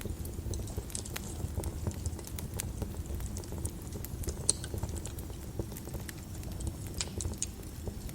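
Wood fire in a fireplace crackling, with irregular sharp pops over a steady low rumble of the flames; one louder pop about halfway through.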